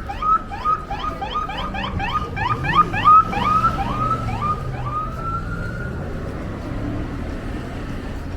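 Electronic siren sounding a rapid series of short rising yelps, about three a second, that slow into one longer rising wail about five seconds in, over a low street rumble.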